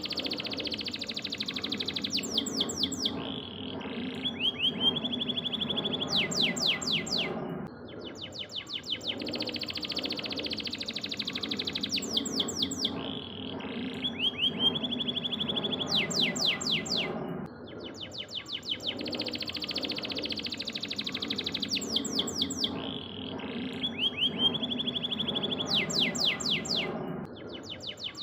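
Yellow domestic canary singing a long song of fast high trills and rapid rattling notes over a low background hum. The same song sequence repeats about every ten seconds, as a looped training recording.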